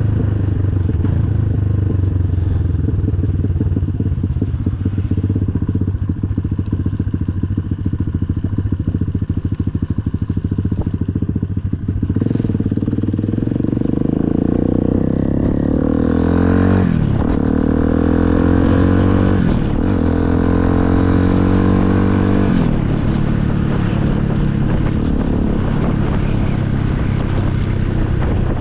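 Motorcycle engine running steadily, then revving up with rising pitch that drops back sharply three times as it shifts up through the gears.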